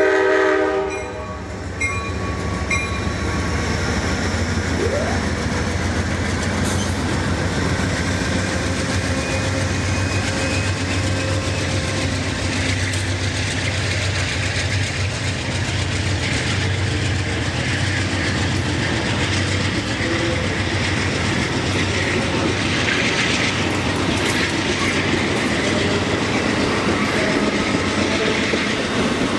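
A train's horn sounds several notes at once and cuts off about a second in. The train then carries on passing with a steady rumble and the clatter of wheels on rail.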